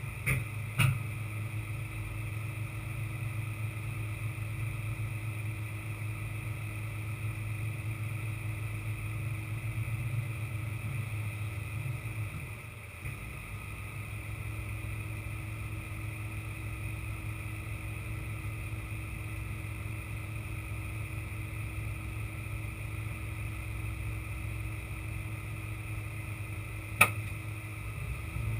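Truck diesel engine running steadily with a low hum and a constant whine above it, with a sharp click about a second in and another near the end.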